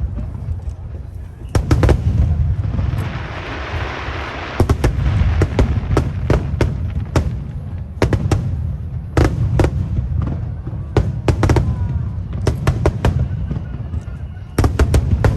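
Aerial fireworks shells bursting in quick succession: sharp bangs every half second or so over a continuous low rumble, with a spell of dense crackling about three seconds in.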